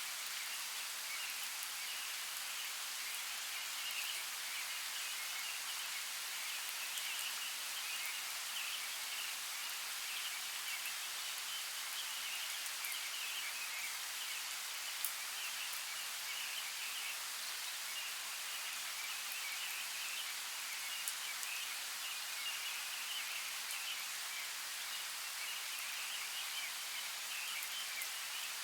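Steady hiss of water running in a forest creek, with a few faint ticks and one sharper tick about halfway through.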